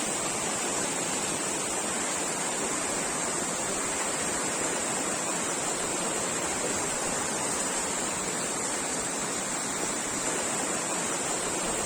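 Rushing water of a forest stream or waterfall: a steady, even noise with no change.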